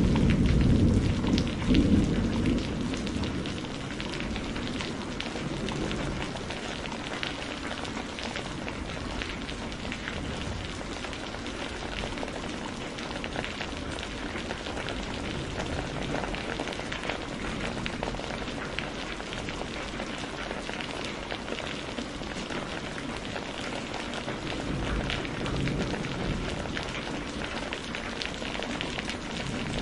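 Thunder rumbling and dying away over the first few seconds, then steady rain with fine pattering ticks.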